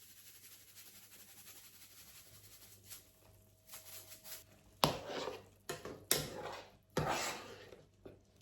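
A spoon knocking and scraping against a cooking pot while stirring in seasoning, with a few sharp knocks in the second half.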